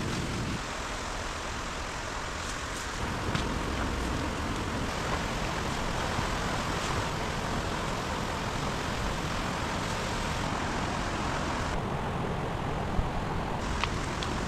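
Steady rushing noise with a few faint knocks.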